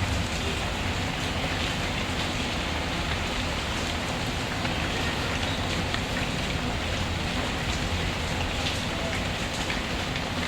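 Steady rain falling, mixed with the scattered small crackles of a wood fire.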